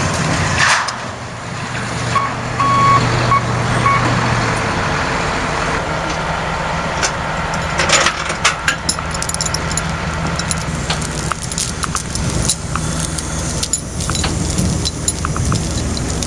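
Heavy truck engine running steadily, with a few short high beeps about two to four seconds in and scattered knocks and clatter.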